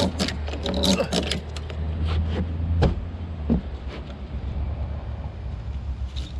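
A vehicle engine running at a steady low drone, with a quick run of clicks and knocks in the first second or so and a couple of single knocks a little later.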